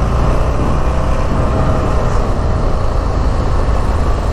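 Buell XB12S Lightning's air-cooled V-twin engine running under throttle as the motorcycle pulls away on a lap. Heavy wind rumble on the microphone.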